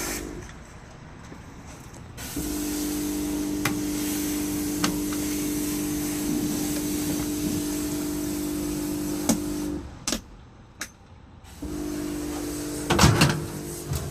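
A motor humming steadily in two spells: it switches on about two seconds in, stops abruptly near ten seconds, and starts again about two seconds later, with clicks and knocks in between.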